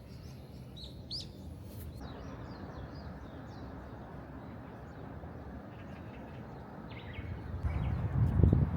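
Small birds chirping in short calls over a steady background hiss, with low rumbling surges near the end.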